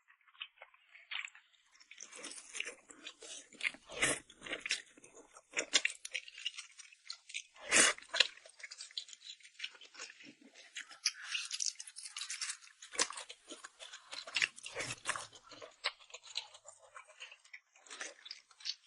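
A person chewing and crunching food close to the microphone: a steady run of irregular wet, crisp mouth clicks, with a louder crunch about eight seconds in.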